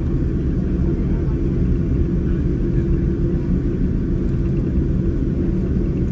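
Inside the cabin of a Boeing 787-9 during takeoff: a steady low rumble of the jet engines and airframe, with a constant hum under it.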